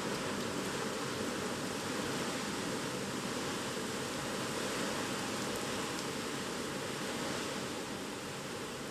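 Typhoon wind and rain making a steady rushing noise that barely changes.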